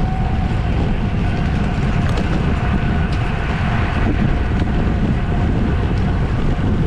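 Wind rushing over the microphone of a camera on a racing bicycle moving at speed, with a faint steady hum and a few light ticks.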